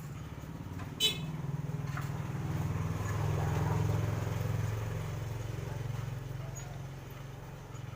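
A machine motor running with a steady low hum and a fine rapid pulse, swelling louder in the middle, with one sharp metallic click about a second in.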